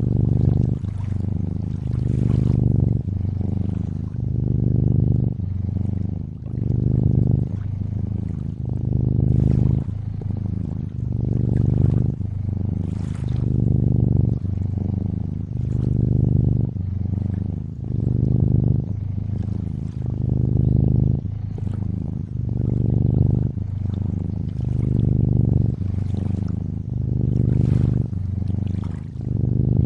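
A cat purring steadily, a low buzzing purr that swells and eases in a regular cycle every second or two. Over it runs gentle lakeside water, soft lapping and trickling.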